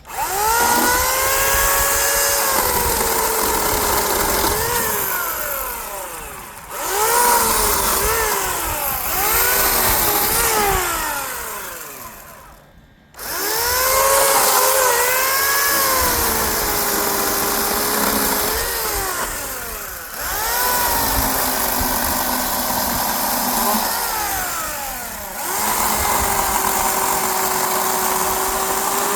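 Electric chainsaw running and cutting through a log in several long runs, its motor pitch sagging as the chain bites into the wood and rising again as it frees. It stops briefly about thirteen seconds in, then starts again.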